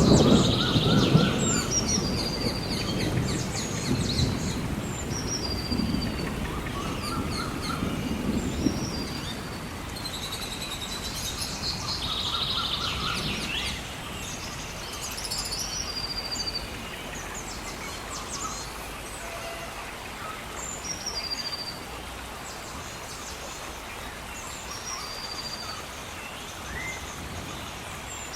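Birds singing in short, repeated high phrases over the steady hiss of gentle rain. A low rumble is loudest at the very start and fades away over the first several seconds.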